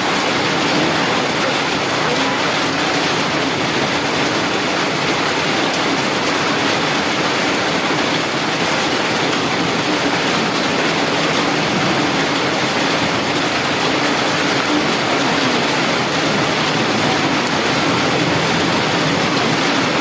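Heavy rain falling, a loud steady hiss, with a faint low engine hum underneath.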